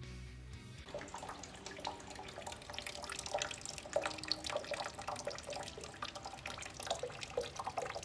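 Water trickling and splashing in a quick, irregular patter of drips and small plops, starting about a second in. Low background music notes fade out at the start.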